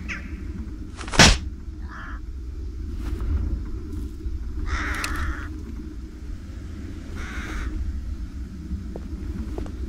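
Three short, harsh bird calls, caw-like, over a steady low rumble, with one sharp, loud click about a second in.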